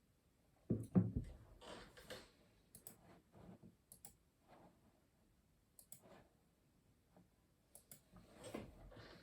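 Typing on a custom mechanical keyboard: irregular, sparse key clicks. There is a louder cluster of heavier keystrokes with low thuds about a second in, and another cluster near the end.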